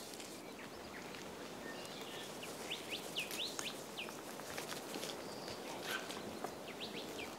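Small birds chirping in short rising-and-falling notes, a cluster about three seconds in and a few more near the end, over a steady outdoor hiss of bush ambience.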